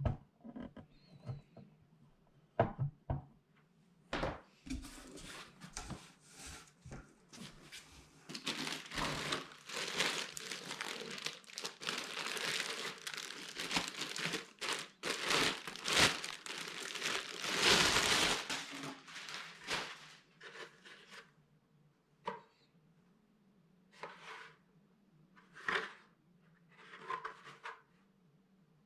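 Packaging of a welding machine being handled and pulled open during unboxing: a few knocks in the first seconds, a long stretch of dense rustling in the middle, then short separate rustles near the end.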